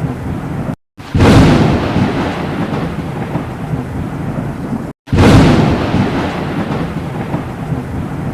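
Thunder with rain: two sudden loud claps, about one second and five seconds in, each rolling off into a long rumble, and each coming right after a brief cut to dead silence.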